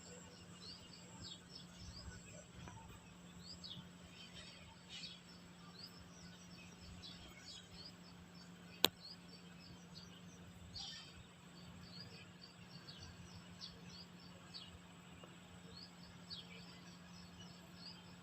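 Small birds chirping, many short quick calls overlapping, with a faint steady hum underneath and one sharp click about nine seconds in.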